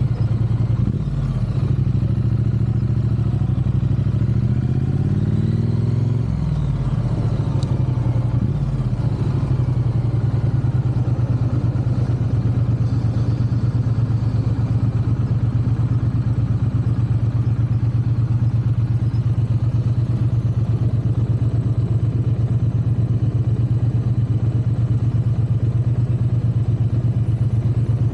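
Triumph parallel-twin motorcycle engine running under way. Its pitch shifts up and down over the first several seconds with throttle and gear changes, then holds a steady cruise.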